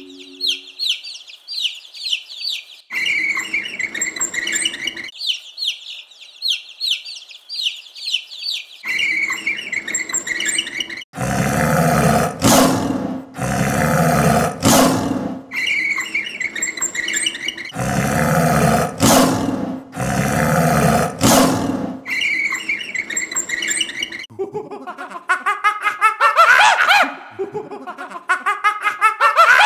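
A troop of monkeys calling: fast, high-pitched chattering chirps, then louder harsh calls in bursts, and rising, squealing screeches over the last few seconds.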